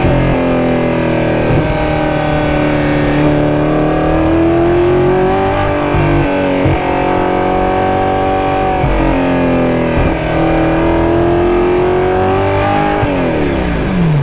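High-revving sports car engine pulling hard through the gears. Its pitch climbs steadily in each gear and drops sharply at each shift, then falls steeply near the end as the car backs off.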